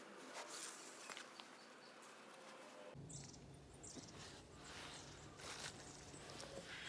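Faint outdoor ambience with a few soft clicks. A low steady rumble comes in suddenly about three seconds in.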